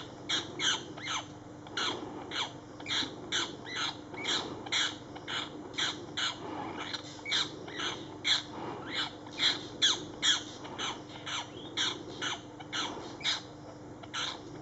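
Harsh bird calls repeated rapidly and evenly, about two to three a second, without a break, over a faint steady hum.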